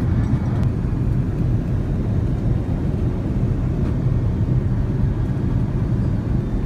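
Steady low rumble of an Airbus A380 airliner heard from inside the cabin: engine and air noise.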